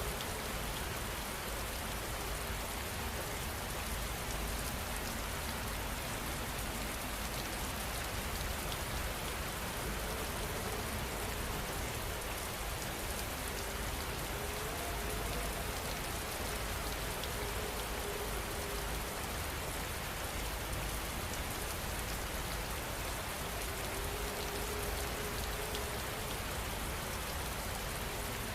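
Steady heavy rain falling, an even hiss without a break.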